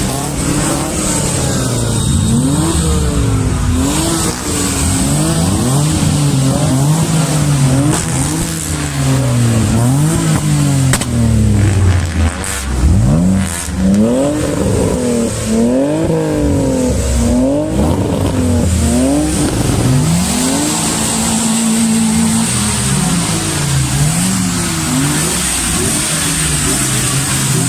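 Modified car engines revving over and over, the pitch rising and falling every second or two. In the middle several engines overlap, and later one holds a steady note for a couple of seconds before the revving goes on.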